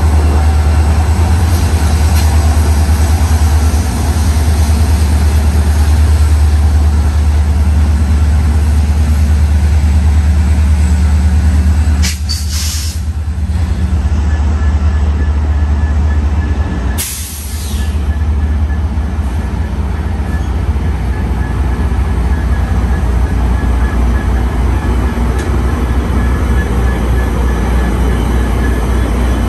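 A stationary commuter train heard from on board: a steady low hum, with two short hisses of compressed air about five seconds apart near the middle.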